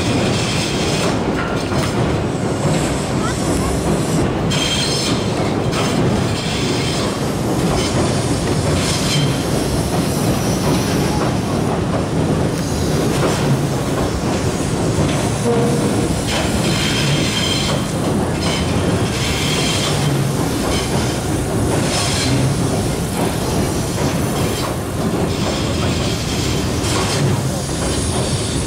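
Tobu Railway train crossing the Sumida River railway bridge at low speed: a steady rumble of wheels on rail with clickety-clack over the joints and repeated short, high wheel squeals.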